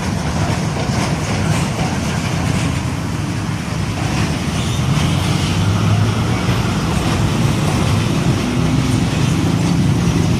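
Heavy diesel truck engine running close by over road traffic noise, a steady low engine drone.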